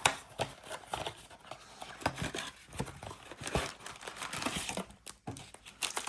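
Plastic wrapping and packaging crinkling and tearing in irregular crackles as a trading card blaster box is opened.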